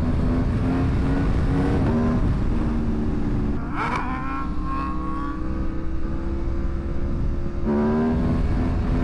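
Aprilia Tuono motorcycle engine pulling under throttle, its pitch climbing and stepping between gears, with a sharp rising rev about four seconds in. Heavy wind rumble runs underneath.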